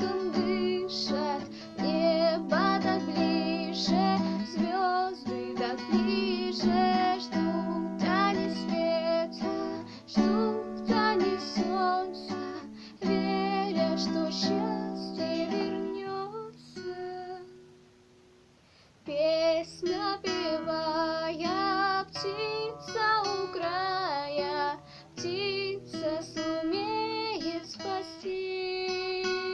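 A woman's voice singing a song to guitar accompaniment. Partway through, the music fades almost to silence for a couple of seconds, then the voice and guitar come back in.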